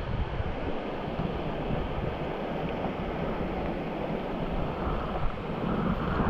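Steady rush of river water around a whitewater raft, with wind noise rumbling on the microphone.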